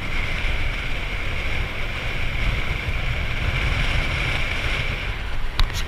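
Motorcycle engine running steadily while riding, with wind noise on the microphone; two sharp clicks near the end.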